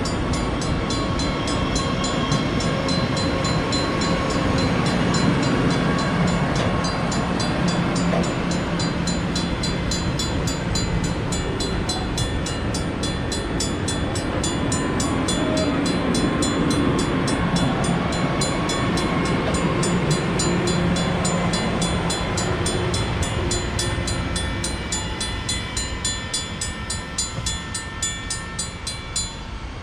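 Commuter train passing close by on the rails with a steady running noise of wheels and cars, fading over the last few seconds as it draws away.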